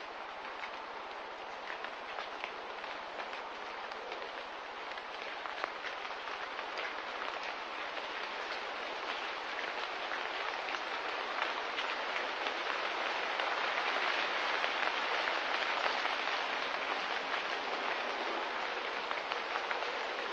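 Steady rain, a hiss flecked with many small drop ticks, slowly growing louder.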